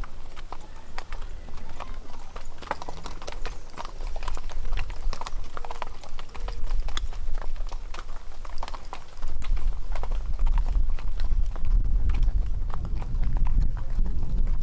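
Horses' hooves clip-clopping at a walk, with many irregular hoof strikes. A low rumble comes in and grows louder about two-thirds of the way through.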